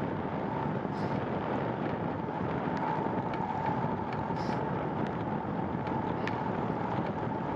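Steady wind rushing over the microphone and tyre noise of a bicycle rolling along a trail, with a faint steady hum and a few light ticks.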